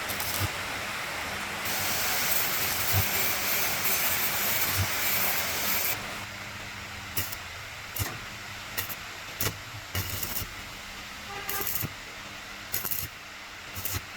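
A steady hiss, louder for the first several seconds, then a quieter background with scattered sharp clicks and knocks.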